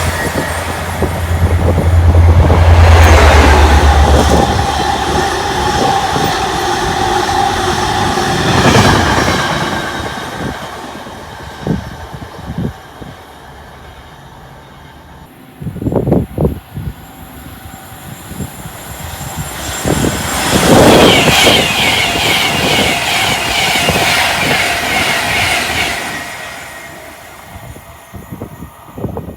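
Trains passing through a main-line station at speed. The first pass is loud and fades after about ten seconds, with a deep hum at its start. A second pass comes in about twenty seconds in and fades near the end.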